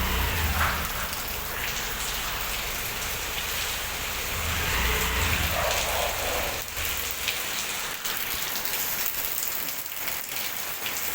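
Heavy rain falling steadily, with water splashing. A low rumble underneath stops about seven seconds in.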